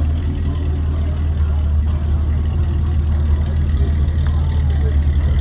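Supercharged V8 of a Yenko muscle car idling with a loud, steady deep rumble.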